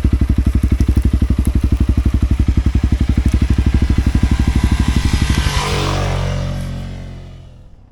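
Motorcycle engine running with an even pulsing beat; about five and a half seconds in the beat gives way to a rushing swell that then fades away near the end.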